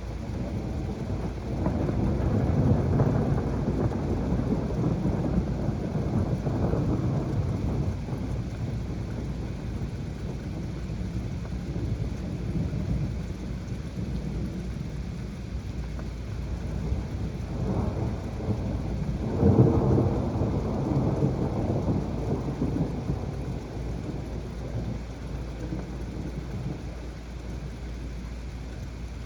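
Heavy rain falling steadily through a thunderstorm, with thunder rumbling. A long rolling rumble comes about two seconds in, and a sudden, louder clap about twenty seconds in rolls away over a few seconds.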